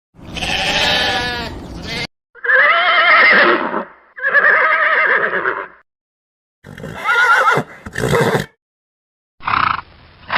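A series of about six separate farm-animal calls, one after another with short silent gaps. Each call has a wavering pitch.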